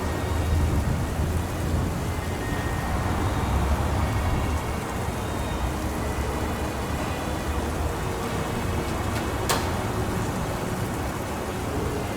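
Steady heavy rain with a low rumble of thunder underneath, and a single sharp crack about nine and a half seconds in.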